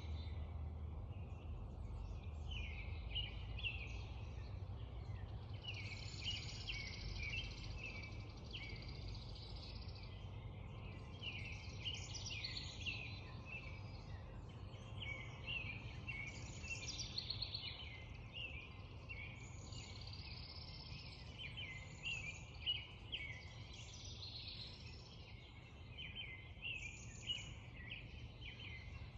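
Many songbirds singing and chirping at once in a spring dawn chorus, short repeated phrases overlapping throughout, over a low steady rumble.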